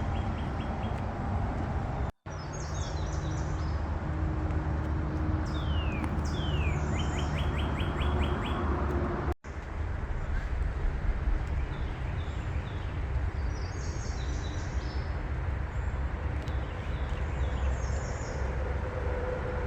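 Small songbirds singing outdoors: several rapid trills of repeated notes and short high chirps, over a steady low rumble. The sound drops out for an instant twice, about two seconds in and again about halfway, where clips join.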